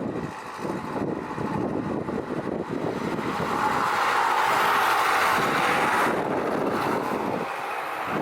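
Airbus A350-900 airliner's Rolls-Royce Trent XWB jet engines on landing, their noise swelling to its loudest about four to six seconds in, then easing. Gusty wind buffets the microphone throughout.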